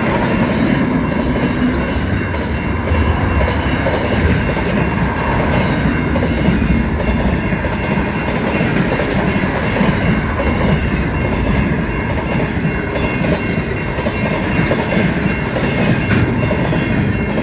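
Pacific National diesel freight train passing close by: the locomotive going past at the start, then a long run of wagons with steady wheel-on-rail noise and clickety-clack over the rail joints.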